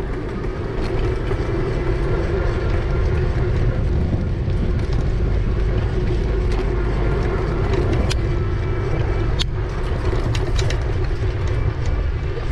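Wind buffeting the microphone and road noise from a moving bicycle, with a steady low hum under it and a few light clicks and rattles, one sharper click about nine and a half seconds in.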